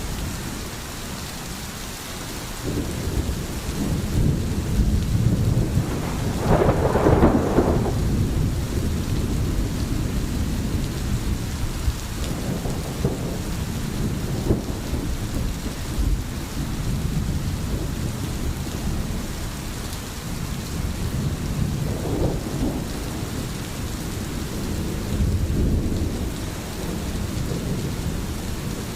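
Steady rain with thunder rumbling, swelling into its loudest roll about seven seconds in and with softer rolls later on.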